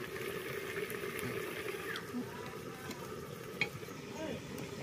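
Goat leg curry sizzling steadily in a covered pan over a wood fire, with one sharp click a little over three and a half seconds in.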